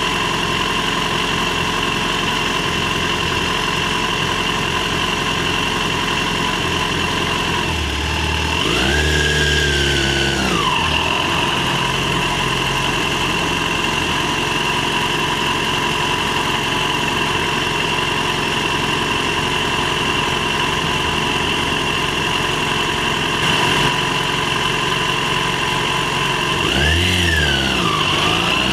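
Yamaha FZ6's 600 cc inline-four engine running steadily at low revs. About eight seconds in the revs rise and fall back. Near the end it accelerates: the revs climb, drop at a gear change and climb again.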